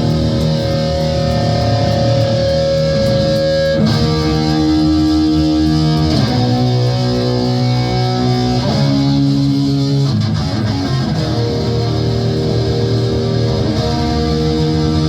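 Live heavy metal band playing distorted electric guitar, holding long sustained chords that change about every two seconds, with no vocals.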